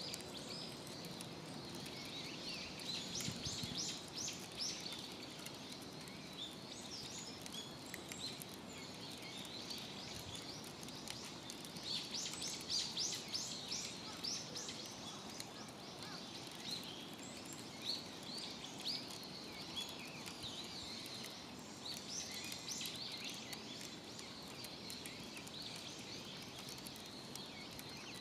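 Birds chirping in quick runs of short high notes, several times over, above a steady outdoor background hiss.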